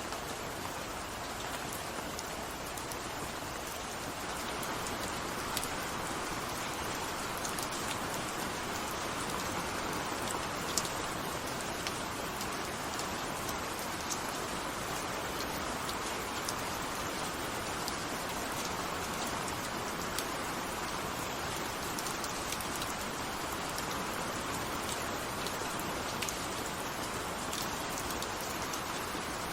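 Steady rain falling on a surface, a continuous hiss with scattered individual drops ticking through it; it grows slightly louder about four seconds in.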